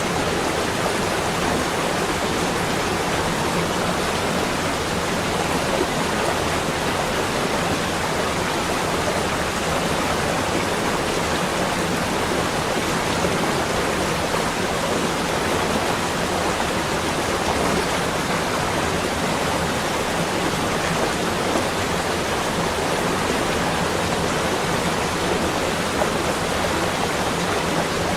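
Steady, even rushing noise, with no separate drops, strokes or breaks, in a winter snow ambience.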